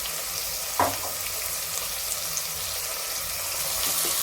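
Sliced onions sizzling steadily in hot oil in a kadai, just salted to draw out their water so they fry faster. There is one short knock about a second in.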